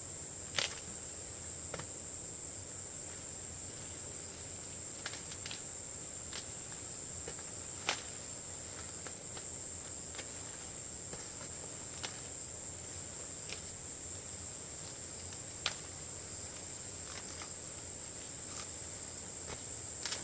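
Insects in chorus: one steady, unbroken high-pitched drone. Scattered sharp clicks and snaps break through it every second or few.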